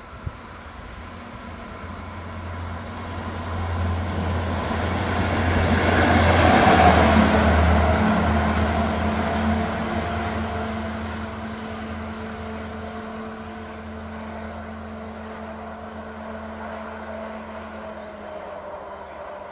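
A train passing by, its rumble building to a peak about seven seconds in and then slowly fading, over a steady low hum.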